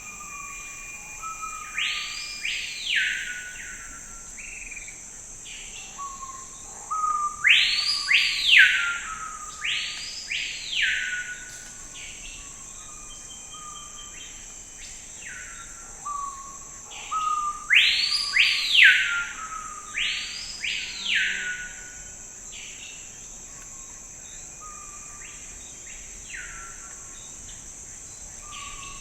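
A songbird singing in the forest: phrases of two or three loud, arched, whistled notes, each starting with short lower notes, repeating about every ten seconds. A steady high-pitched drone runs beneath it.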